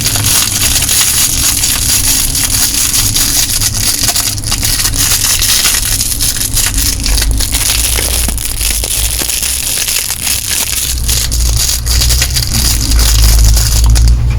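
Close-miked ASMR mouth sounds of a hard lollipop being licked and sucked: wet smacking and dense little clicks, with a low rumble growing from about halfway.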